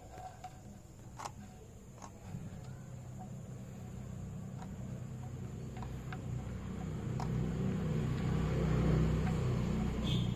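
A few light metallic clicks as a wrench works the drain bolt under the New Holland tractor's engine, then old engine oil starting to pour out of the drain hole, a steady rushing pour that grows louder over several seconds.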